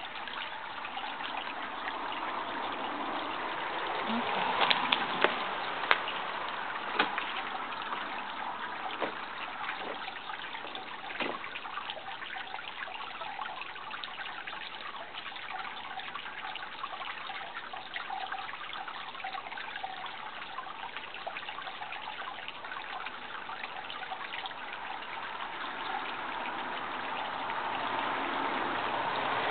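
Water trickling steadily, with a few sharp clicks in the first dozen seconds.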